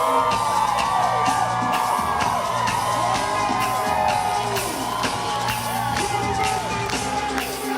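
Loud live concert music: long held sung notes over a steady bass beat, with whoops.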